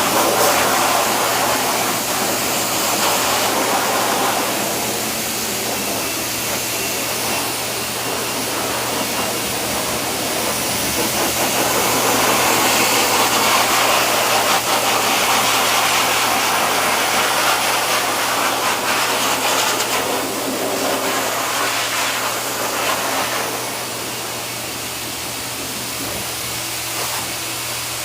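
Dog grooming dryer blowing steadily, its rush of air growing louder and softer by turns over a steady low hum.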